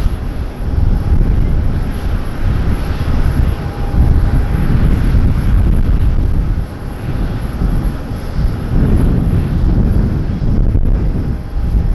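Jet airliner's engines giving a loud, deep, uneven rumble as the plane passes near the airport.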